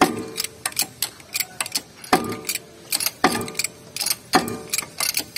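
Metal tools working on a diesel engine's cylinder liner: repeated heavy metal clanks that ring briefly, about one a second, with lighter clicks and taps between.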